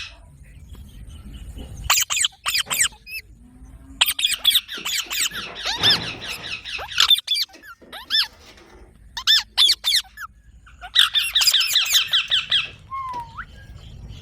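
Green parrots giving rapid runs of high squeaky begging calls, a young bird pleading to be fed while another parrot feeds it. The calls come in two long bursts, one in the middle and one near the end, with single short squeaks in between.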